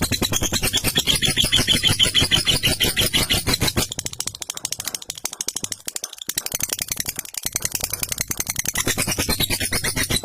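Lovebird giving its long 'ngekek' chatter: a very fast, unbroken run of harsh, rattling notes. It goes quieter for a few seconds in the middle, picks up again, and cuts off suddenly at the end.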